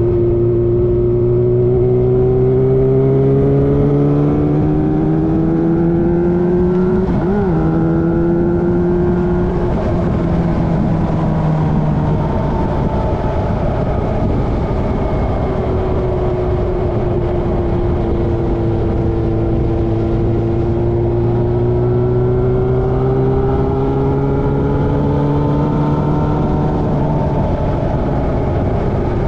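Motorcycle engine running on the road, its pitch climbing and easing off several times as the revs change, with a brief jump in pitch about seven seconds in.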